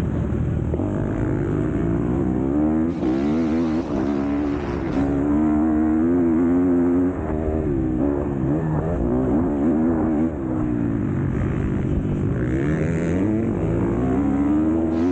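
MX2 motocross bike engine being ridden hard, revving up and down continuously. Its pitch climbs and drops again every second or two, with a few brief dips in loudness as the throttle comes off.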